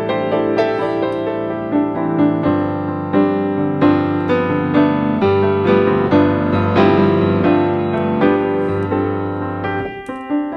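Background piano music, a melody of changing notes over held bass notes, with a brief drop near the end.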